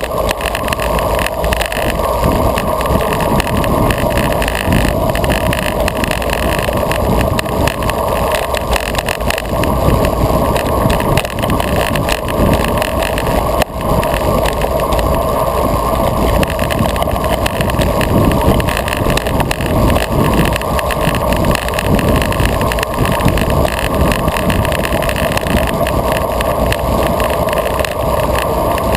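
Loud, steady wind noise over a GoPro microphone on a road bike at speed, mixed with tyre and road noise.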